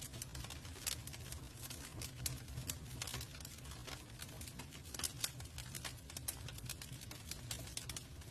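Campfire crackling: irregular sharp pops and snaps of burning wood, several a second, over a low steady rumble.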